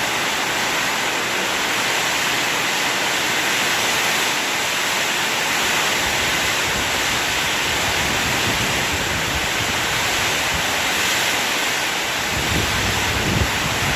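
Steady heavy rain, an even unbroken hiss, with a few low thuds near the end.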